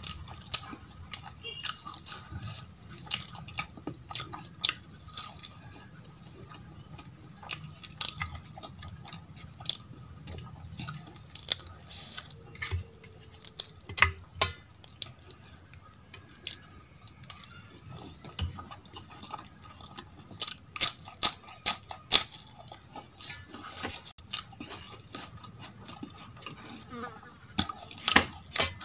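Close-miked chewing and crunching of fried aloo kachori soaked in potato curry, with many scattered sharp clicks and clinks as fingers scrape and knock the steel bowl and plate.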